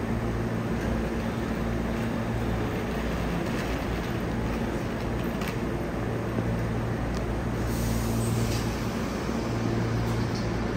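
Steady running noise of a Hankyu electric commuter train: an even rumble with a low, constant hum and a few faint clicks.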